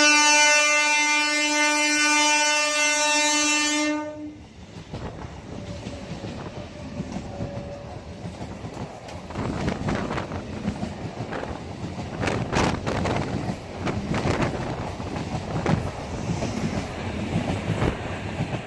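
Indian Railways locomotive horn held in a long steady blast that cuts off about four seconds in, then the sleeper express running past with wheels clattering over the rail joints, the clatter growing louder midway and easing off near the end.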